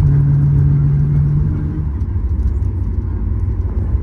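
Steady low rumble of a Boeing 737-8 MAX heard from inside the cabin, with a steady low hum that cuts off about two seconds in while the rumble carries on.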